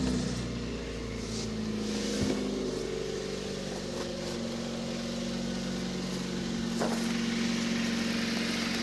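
Kia Rio 3 engine idling steadily just after being started, with no drive-belt squeal: the alternator belt has been treated with a spray belt dressing.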